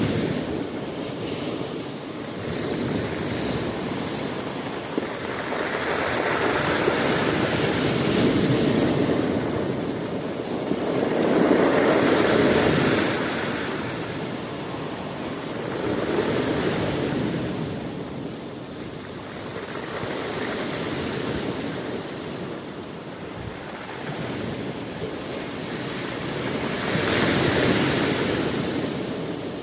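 Ocean waves breaking and washing on a shore, swelling and ebbing every few seconds in a steady rush, with wind on the microphone.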